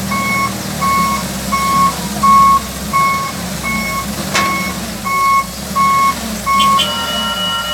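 Reversing alarm on heavy construction machinery beeping steadily, about one and a half beeps a second, over a running diesel engine. A single sharp click about four seconds in, and near the end the beeping gives way to a steady higher tone.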